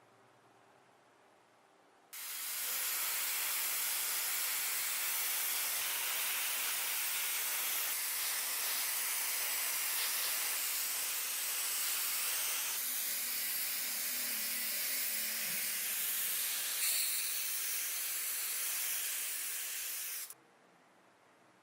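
Steady hiss of pressurised air spray, such as used to paint or blast a small model car body. It starts abruptly about two seconds in and stops suddenly near the end.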